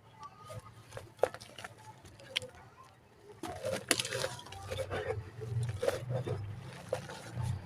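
Dried mud cake crumbling in the hands, with irregular crisp cracks and crumbles. Single sharp snaps come about a second in and near the middle, then denser crackling and grinding from about three and a half seconds.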